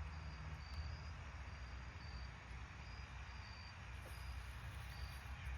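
Faint cricket chirping, short high chirps about twice a second, over a low steady background rumble.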